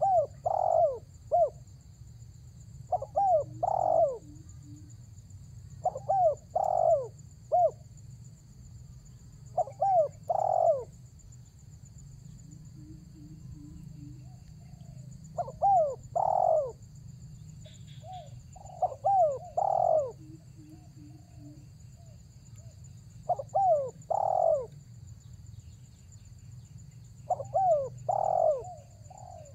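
Spotted dove (tekukur) cooing in the lure-call style: short phrases of three or four coos, about eight phrases, one every three to four seconds. A faint steady high-pitched whine and a low hum run underneath.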